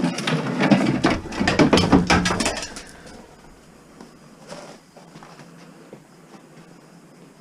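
Rattling and clicking of light items being handled and knocked together, dense for about three seconds, then only a few faint clicks.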